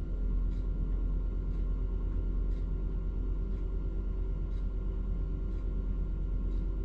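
Truck crane's engine running steadily with a low rumble, with a faint tick about once a second.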